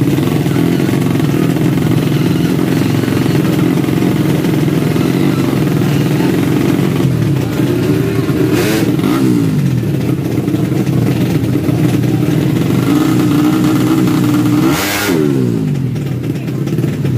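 Tuned four-stroke underbone motorcycle engines running at high revs without a break. Twice, about nine and fifteen seconds in, an engine's pitch climbs, peaks sharply and then sweeps down.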